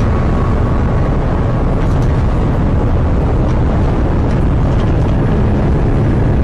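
Hurricane-force wind blowing hard and buffeting the microphone: a loud, steady rush of noise, heaviest in the low end.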